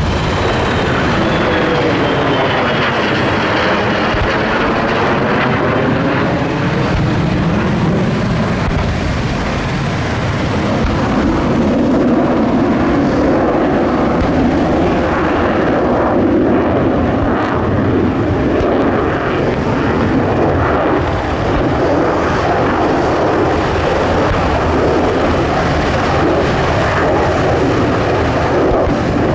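Loud, steady aircraft engine roar during an F-35's separation from a refuelling tanker, with a sweeping, phasing quality over the first several seconds before it evens out.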